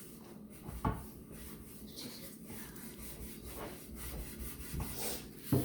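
Brillo steel-wool pad scrubbing the inside of a rusted cast iron skillet in repeated rubbing strokes, about two a second, with a harder stroke about a second in and another near the end. The pad is smoothing the pan's cooking surface after sanding away rust.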